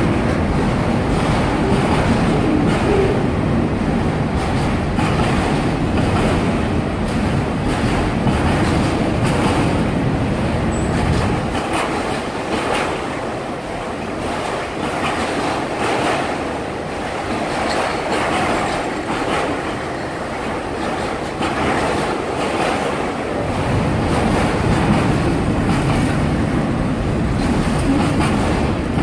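Autorack freight cars rolling past close by: a steady rumble of steel wheels on rail with clicking over the rail joints. The deep rumble eases off for about twelve seconds mid-way, then comes back.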